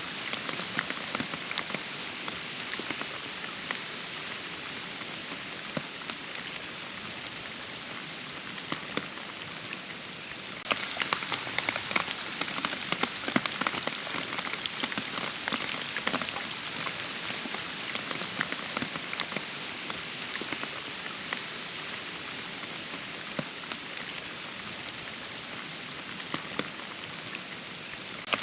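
Steady rain, with many individual drops striking close by. About a third of the way in it suddenly becomes louder and denser.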